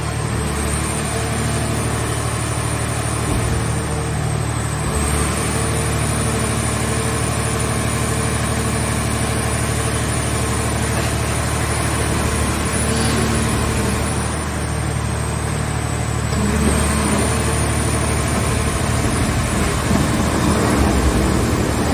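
Engine of a mobile car-shell baler running steadily at a constant speed.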